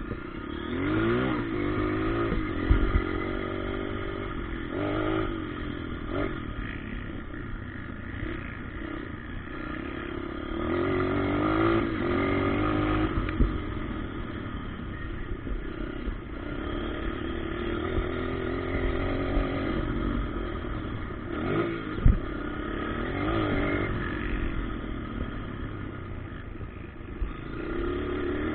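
Motocross dirt bikes' engines revving up and falling back over and over as they ride the track. Two sharp knocks stand out, one about three seconds in and a louder one about 22 seconds in.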